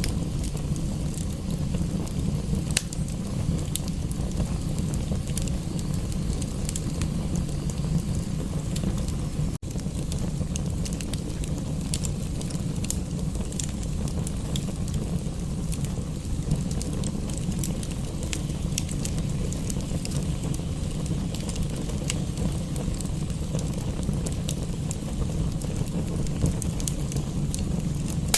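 Wood fire crackling in a fireplace, with scattered sharp pops over a steady low rumble. The sound briefly drops out about ten seconds in.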